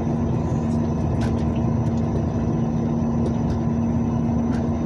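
Truck engine running steadily with an even drone and a constant hum.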